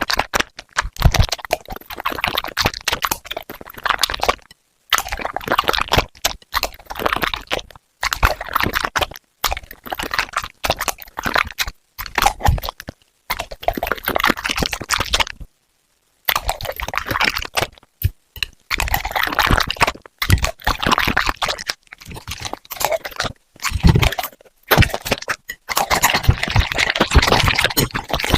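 Dog eating from its bowl: wet chewing, smacking and crunching in irregular bursts, broken by short pauses.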